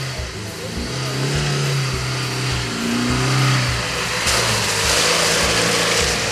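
Off-road vehicle engine revving under load, with a loud rushing noise coming in about four seconds in.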